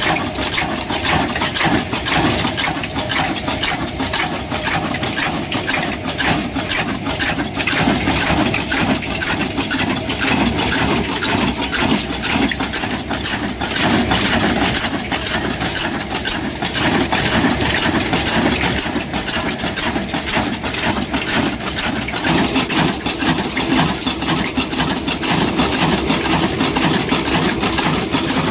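Old slow-speed stationary diesel engine of the Indian-subcontinent 'black engine' type running steadily, with a continuous metallic clatter.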